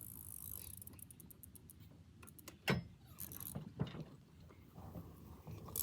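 Small pedal bike being ridden, its chain and freewheel rattling and ticking, with a sharp knock nearly three seconds in and another about a second later.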